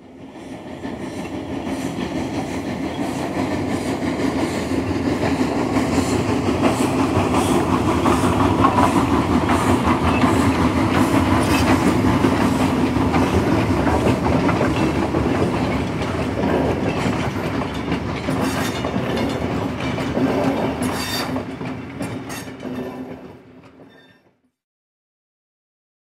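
A train running along rails with a steady rumble and clickety-clack. It fades in at the start, and near the end it fades out.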